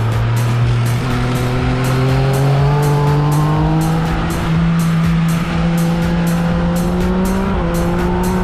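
Yamaha XSR900's inline-three engine running under load, its note rising slowly as the bike gathers speed, with a small change in pitch near the end.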